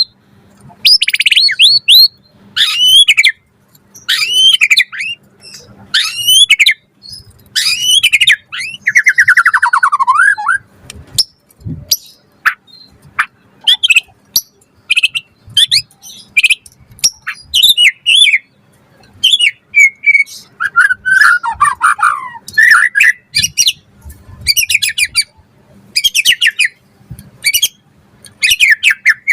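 White-rumped shama (murai batu) singing vigorously: a quick string of short, varied whistled and chattering phrases, about one a second, with two longer falling trills, one about eight seconds in and one about twenty-one seconds in.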